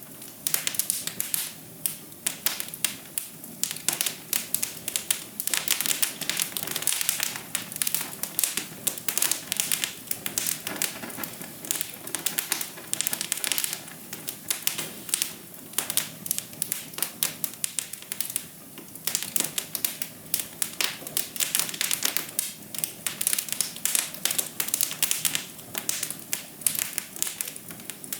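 Fire in a fireplace crackling: a dense, irregular run of sharp pops and snaps over a soft hiss.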